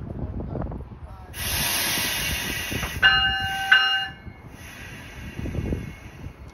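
A loud burst of compressed-air hiss from the NJ Transit multilevel train, lasting about a second and a half. Right after it come two short horn blasts, the usual two-blast signal that a train is about to move off. A fainter hiss carries on afterwards.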